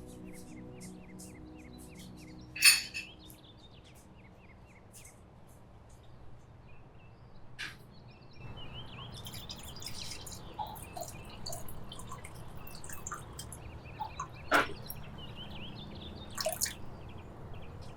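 A few separate sharp clinks and knocks from drink-making in a kitchen, the loudest about three seconds in, over small birds chirping in the background.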